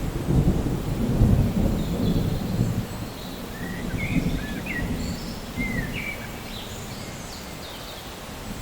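Thunder rumbling over steady rain, heaviest for the first few seconds and then dying away. Short high chirps come in near the middle.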